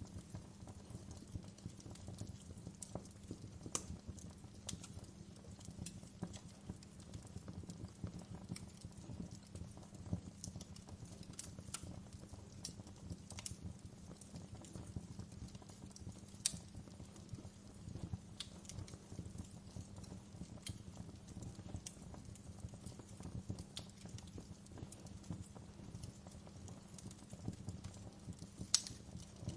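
Wood fire in a fireplace crackling: a steady stream of small snaps over a low, even rumble, with a couple of louder pops about halfway through and near the end.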